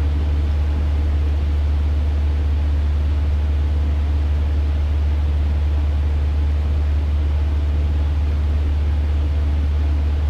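Cessna 150's four-cylinder Continental O-200 engine and propeller running steadily in flight, a constant low drone with no change in pitch or level.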